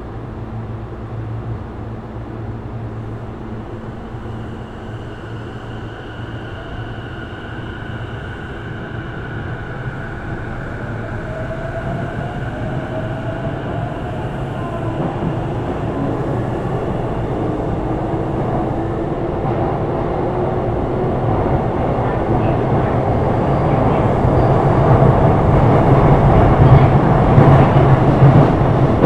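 Sotetsu 12000 series electric train, with Mitsubishi IGBT-VVVF inverter control, picking up speed. The motor and inverter whine rises in pitch while the wheel and rail noise grows steadily louder.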